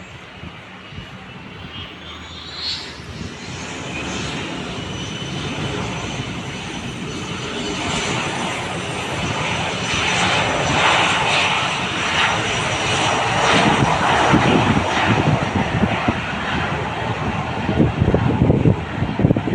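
Aircraft engines grow steadily louder as a plane approaches and passes close, with a high steady whine over a deep rumble.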